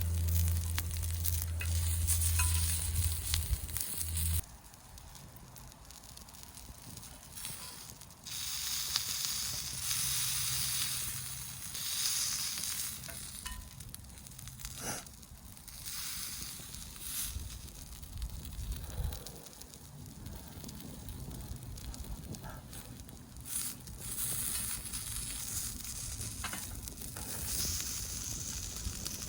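Sausages sizzling over a wood campfire: a hiss that swells and fades, with scattered pops and clicks. A low steady hum runs for the first four seconds or so and cuts off suddenly.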